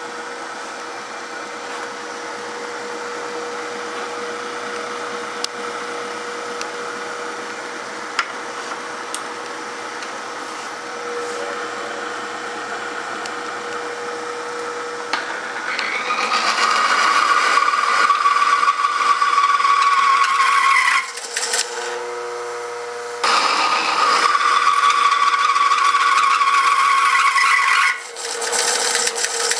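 A small motor-driven machine running steadily with a whirring, grinding sound. About halfway through it gets louder and harsher, briefly drops away twice near the end, and there are a few sharp clicks early on.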